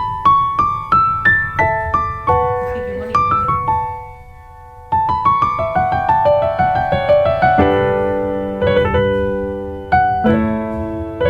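Background piano music: gentle rising runs of single notes, a short pause about four seconds in, then fuller chords.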